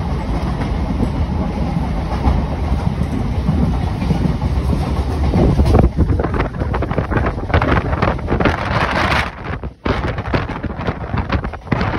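A moving passenger train heard from its open doorway: a steady low rumble of the running coach on the rails. About halfway through, gusty wind buffets the microphone over the running noise, dropping out briefly near the end.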